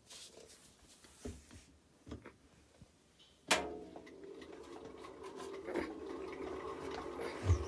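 Faint knocks, then a sharp click about halfway through and water starting to rush steadily, as if filling a tub or tank.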